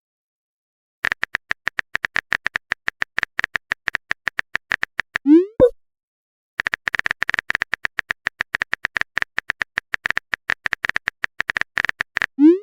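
Rapid, even phone-keyboard typing clicks for about four seconds, then a short rising pop of a message being sent. The typing starts again about a second later, runs about six seconds, and ends in another pop near the end.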